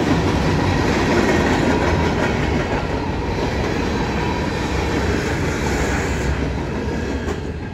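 Freight cars of a Norfolk Southern train rolling past: the steady noise of steel wheels on the rails, easing slightly near the end.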